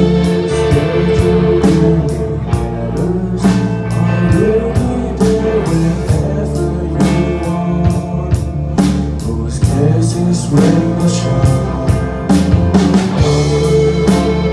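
Live rock band playing an instrumental passage: electric guitar over bass and a steady drum-kit beat.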